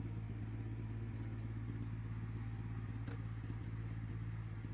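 A diesel engine of heavy earthmoving equipment running steadily under load, a constant deep hum, as the machine pushes a pile of mud.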